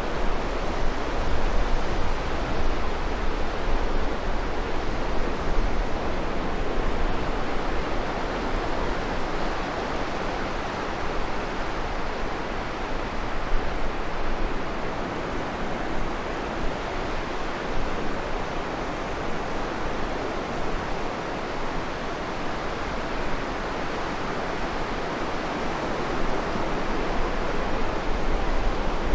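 Steady rushing wind outdoors, with low rumbling gusts of wind on the microphone.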